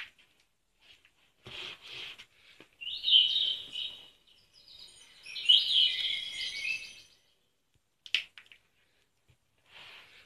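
Recorded bird calls played twice through a children's sound book's small speaker, each a few seconds of quick high chirps. Softer rustling and clicks of the book being handled come between them.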